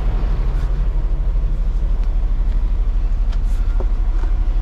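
Diesel engine idling with a steady low rumble.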